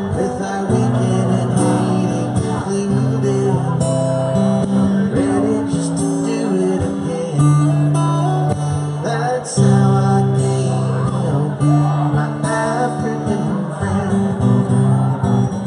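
Live band music led by guitar, an instrumental passage with held notes over a bass line.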